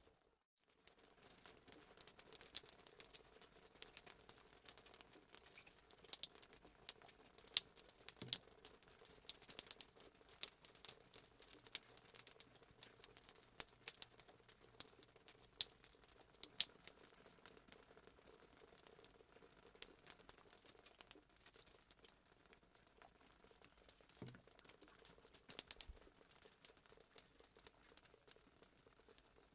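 Fireplace sound effect: a wood fire crackling faintly, with dense, irregular snaps and pops.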